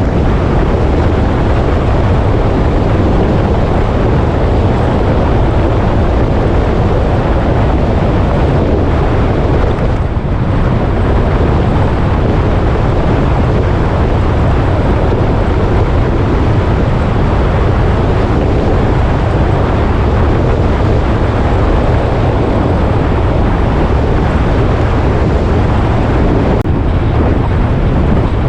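Heavy wind rush on the microphone of a riding motorcycle, mixed with the motorcycle's engine and road noise, loud and steady throughout.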